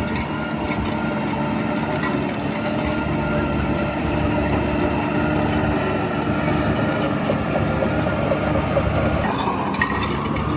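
Heavy diesel engine of earthmoving equipment running steadily, with a rising whine near the end.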